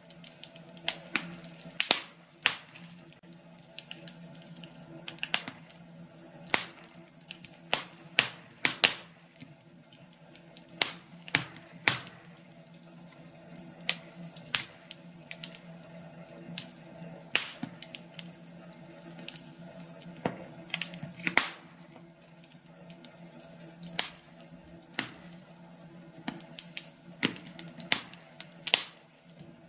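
Firewood burning in a fireplace, crackling with irregular sharp pops and snaps over a steady low background.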